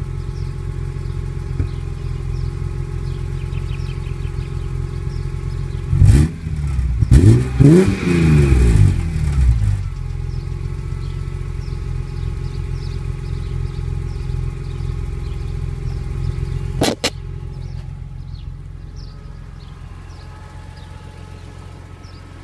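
2002 BMW M3's straight-six engine idling at the exhaust, blipped once at about six seconds and a few more times from about seven to nine and a half seconds in, the revs climbing and dropping quickly, then settling back to a steady idle. A single sharp click comes near the end.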